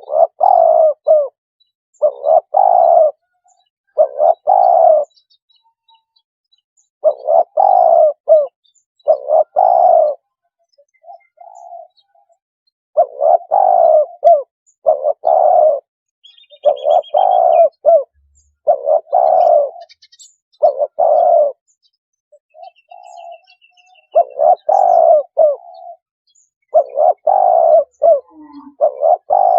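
Spotted dove cooing, a decoy call for luring spotted doves: loud coo phrases about a second long, repeated in groups with short pauses, with a few fainter, shorter coos in between.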